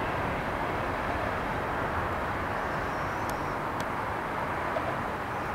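CSX eastbound mixed freight train's cars rolling past: steady noise of steel wheels on the rails, with a couple of faint ticks near the middle.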